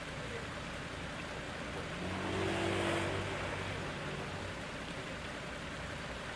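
A steady rushing noise, with an engine's hum that swells up about two seconds in and fades again a couple of seconds later.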